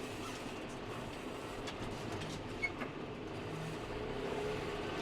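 Tractor engines running steadily as the convoy moves off, a continuous even engine drone with a low hum.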